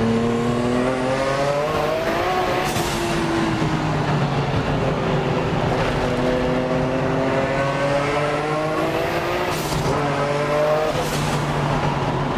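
Twin-turbo 2.8-litre straight-six of a Nissan Skyline GT-R accelerating hard, heard from inside the cabin. The engine note climbs in pitch and is cut by quick sequential-gearbox upshifts once a little under three seconds in and twice near the end.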